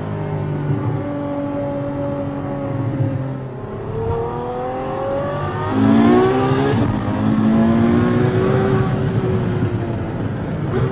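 Ferrari F12 Berlinetta's V12 engine heard from inside the cabin, cruising steadily at first, then accelerating about four seconds in with its pitch rising. Around six seconds, where it is loudest, the pitch drops at an upshift and climbs again, then holds and eases off near the end.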